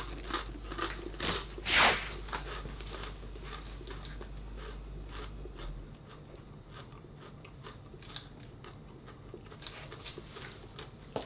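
A person biting and chewing a potato chip: a few loud crunches in the first two seconds, then a long run of softer crunching as it is chewed.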